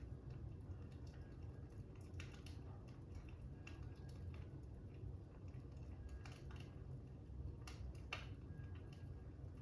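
Fire crackling: irregular soft pops and snaps over a low, steady rumble.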